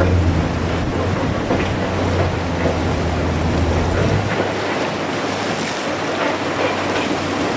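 Strong wind buffeting the microphone over a steady rush of sea surf. The low rumble of the gusts eases about four seconds in.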